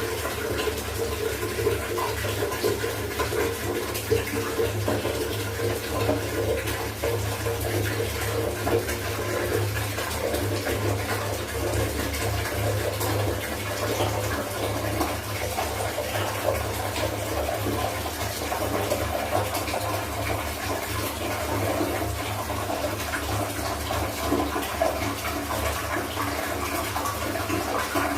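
Water running and splashing steadily while clothes are washed by hand.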